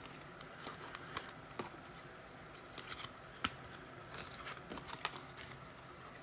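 Trading cards being handled and flipped through by hand: faint, scattered soft clicks and slides of card stock, with one sharper click about three and a half seconds in.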